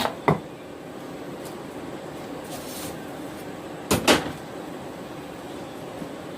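A few sharp metal knocks from forging work, two close together at the start and two more about four seconds in, over a steady rushing noise.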